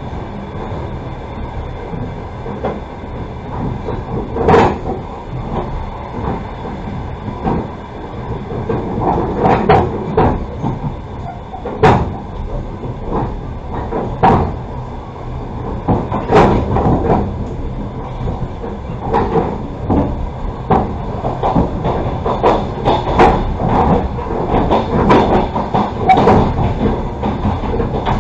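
Passenger railway carriage running, heard from inside: a steady rumble with irregular sharp knocks and rattles from the wheels and car body.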